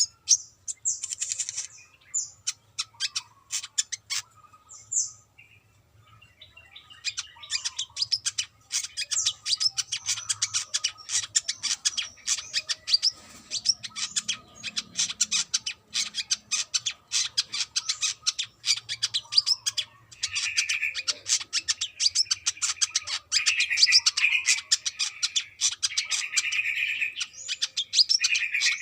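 Brown-throated sunbird singing: rapid, high-pitched chirps and twitters. They come sparsely at first, pause for a moment, then run on as a dense, almost unbroken stream, with buzzier trills in the last part.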